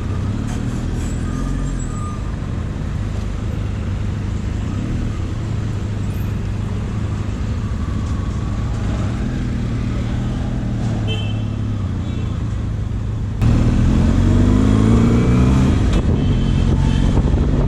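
Benelli Zeus motorcycle riding through city traffic, its engine running steadily under the surrounding traffic noise. About 13 seconds in it suddenly gets louder and the engine pitch rises as the bike accelerates.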